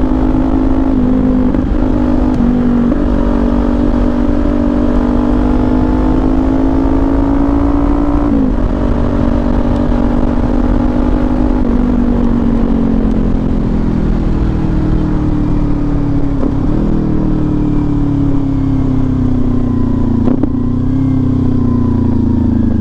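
Kawasaki Ninja 400's parallel-twin engine through an SC-Project aftermarket exhaust, pulling steadily at highway speed. Its note climbs slowly for about eight seconds, breaks briefly, then sinks gradually as the bike eases off.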